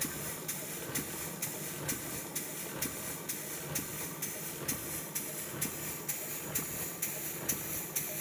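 Model steam beam engine running steadily, its exhaust beating evenly about twice a second over a continuous hiss of steam.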